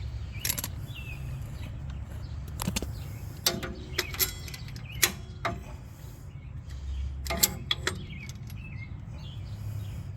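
Hand tools clinking and tapping against metal in scattered bursts, as locking pliers (vice grips) are repositioned and clamped on the top of a truck shock absorber, over a steady low rumble.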